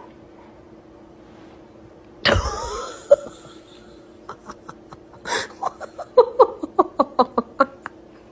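A sudden thud with a short noisy crash about two seconds in, then a person laughing in short rapid bursts, about four a second, over a faint steady hum.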